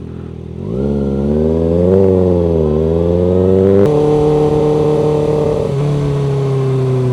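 Loud motorcycle engine pulling away under throttle. Its note rises about a second in, changes abruptly twice, about four and six seconds in, and eases off near the end.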